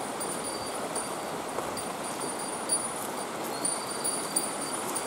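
Running water of a forest stream, a steady rush. A faint, thin high tone comes and goes over it.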